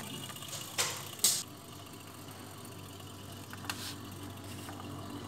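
Juki MO-6716S five-thread industrial overlock machine: a steady low hum with a few short clicks and rattles, the sharpest about a second in.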